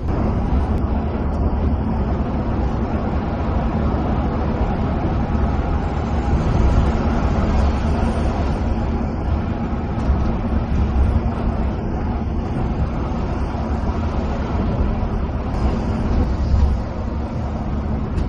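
Steady low rumble of a coach's diesel engine with tyre and road noise, heard from inside the bus cabin while it drives along.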